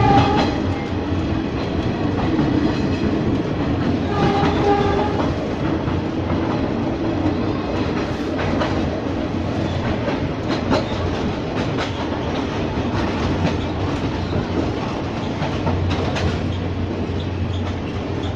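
Ex-JR 203 series electric multiple unit running on Philippine National Railways track, its wheels clicking over rail joints. A train horn sounds briefly at the start and again about four seconds in.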